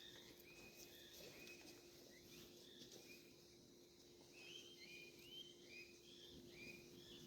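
Faint birdsong: short high chirping phrases repeated throughout, coming thicker in the second half, over a faint steady hum.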